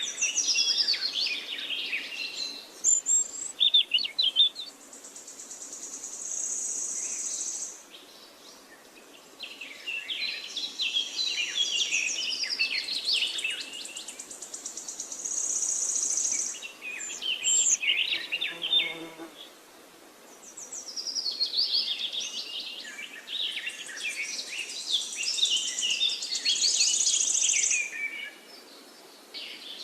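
Songbirds singing in repeated phrases of quick, varied chirps and warbles, with quiet gaps between them. Several high, thin, steady trills of about two seconds each are mixed in.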